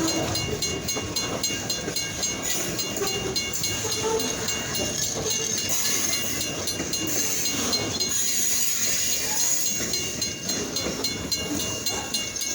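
Kiamichi Railroad freight cars rolling steadily past over a grade crossing, with wheels hissing and clacking on the rails. The crossing's old mechanical bell rings along with it.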